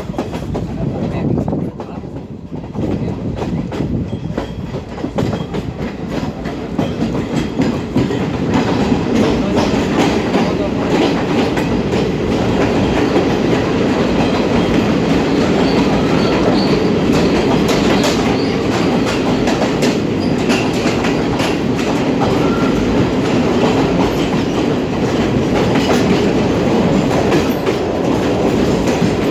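Passenger train running, its wheels clattering over the rail joints in a steady clickety-clack; the noise grows louder about eight seconds in and then holds steady.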